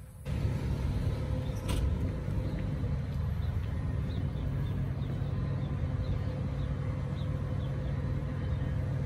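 Metra diesel commuter train at the station platform: a steady low rumble with a constant hum.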